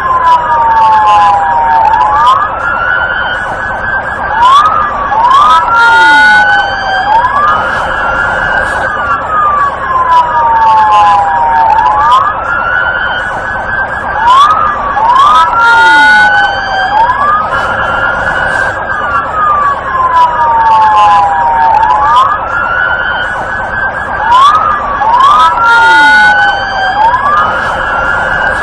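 South Dakota police car's electronic siren, its pitch sweeping up sharply and falling back more slowly, repeating about every one to two seconds over a steady, dense layer of tone.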